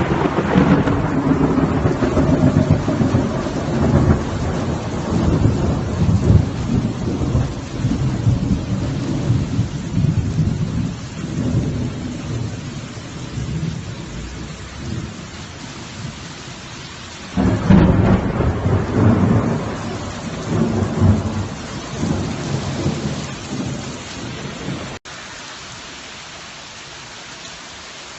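Thunder rumbling over steady rain: one long peal fades away, and about 17 seconds in a second sudden crack rolls into more rumbling. Near the end the thunder cuts off suddenly, leaving only the rain.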